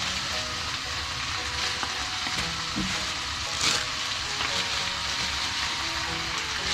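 Cabbage, onion, green pepper and bacon sizzling in a frying pan while being stirred, with a sharp clatter about halfway through.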